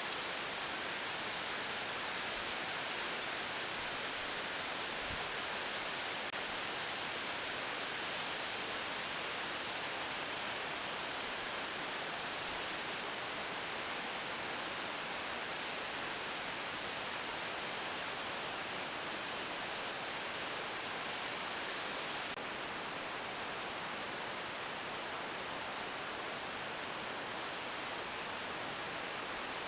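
Steady, even hiss with no distinct events, and a faint thin high tone above it.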